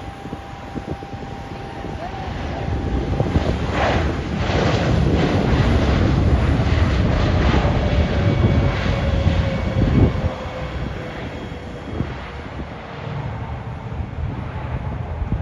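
Airliner's engines passing close by: a rumble swells to a peak over several seconds while a steady whine slides slowly down in pitch as it goes past, then the sound eases off to a lower rumble.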